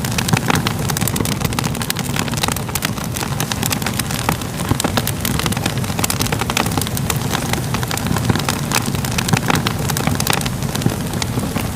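Fire crackling steadily, with many sharp pops and snaps over a low rumble of flames.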